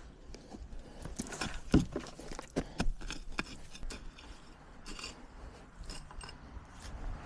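Scattered light knocks and metallic clinks of objects being handled, the loudest a little before two seconds in.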